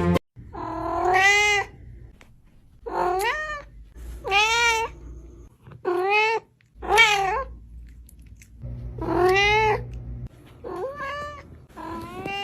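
Domestic cat meowing repeatedly, about seven long drawn-out meows in a row, each rising and then falling in pitch.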